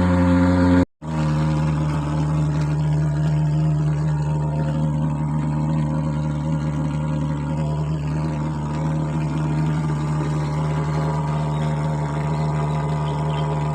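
Portable pulse-jet thermal fogging machine running with a loud, steady drone. The sound cuts out abruptly for a split second about a second in, then the drone resumes with a somewhat different tone.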